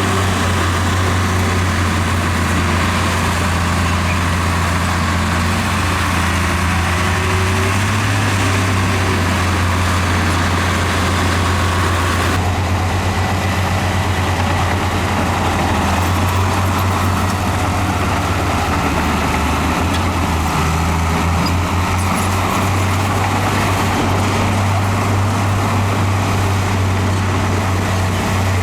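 Diesel engines of heavy earthmoving equipment (bulldozer and dump truck) running steadily with a deep, continuous drone. The character of the higher part of the sound shifts abruptly about twelve seconds in.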